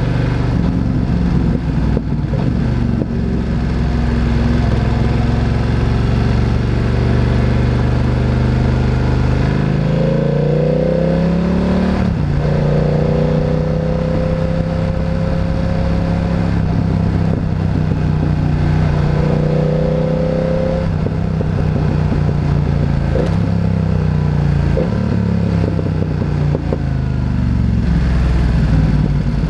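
Motorcycle engine riding: the revs climb about ten seconds in, break for a gear change near twelve seconds, hold steady, then drop in steps in the last third as the bike slows.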